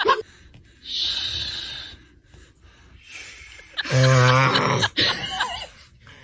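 A person snoring: a breathy in-breath about a second in, then a loud rasping snore about four seconds in, followed by a brief, higher-pitched vocal sound.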